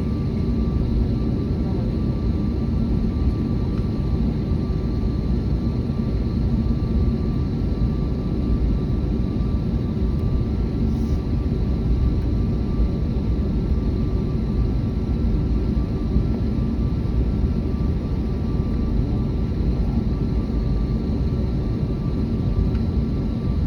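Airbus A321neo jet airliner noise: a loud, steady low rumble with a few faint steady whining tones, holding even throughout with no rise or fall.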